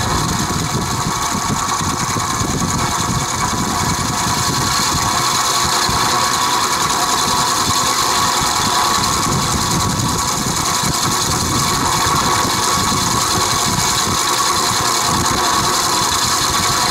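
Vintage Penncrest 20-inch box fan running steadily, its motor giving a rough, rattling drone. The rattle persists even though the motor has no side play and the blades are not loose; the owner wonders whether the bearings, perhaps never oiled, have a groove worn into them.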